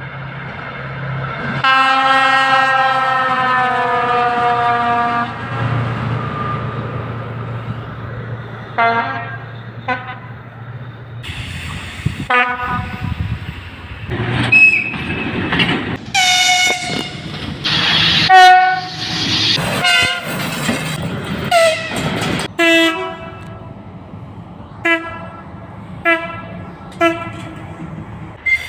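Russian locomotive air horns (tifons) and whistles sounding over the rumble of passing trains. One long blast starts about two seconds in and lasts about three and a half seconds, followed by a string of short blasts.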